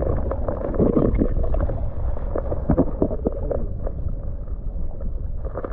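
Creek water splashing and sloshing in irregular strokes as a small bass is let go back into the water, over a low wind rumble on the microphone.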